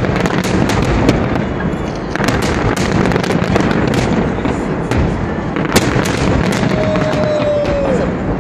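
Festive fireworks salute: a dense, continuous run of bangs and crackles.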